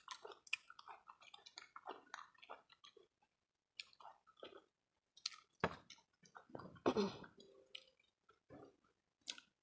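Close-up chewing and mouth sounds: irregular wet clicks and smacks of someone eating, here chewing fibrous vegetable stalks. A brief hummed voice sound comes about seven seconds in.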